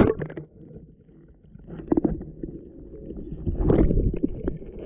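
Muffled low rumbling and knocking from a GoPro being handled, with louder surges about two seconds in and again about a second and a half later.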